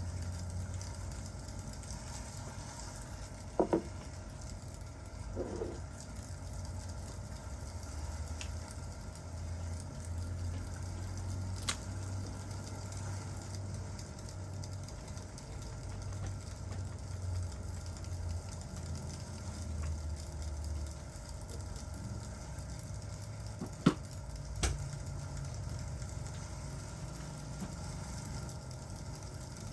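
Crackling fireplace over a steady hiss of rain, with a few sharp pops now and then, the loudest about three-quarters of the way through.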